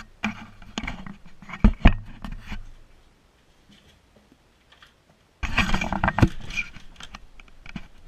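A dog moving about in fresh deep snow: irregular crunching and scraping with a light jingle of collar tags. It comes in two busy spells, with a quieter gap of about two and a half seconds between them.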